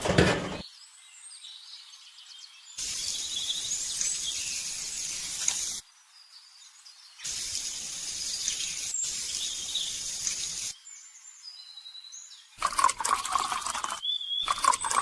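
Small birds chirping, broken by three spells of hissing, rushing noise of about three seconds each, like water running or spraying.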